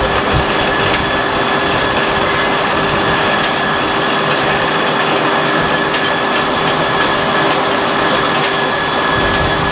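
Sawmill machinery running: a loud, steady din with a constant high whine over it.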